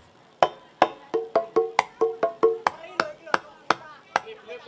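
Percussion music: a quick, uneven run of about a dozen sharp, pitched drum or wood-block strokes, each with a short ring, played back through a sound system for a sound check.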